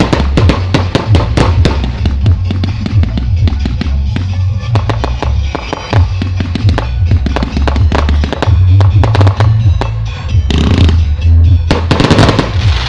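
Fireworks crackling and popping in rapid, uneven strings over music with a heavy bass line. Two bursts of hissing come near the end.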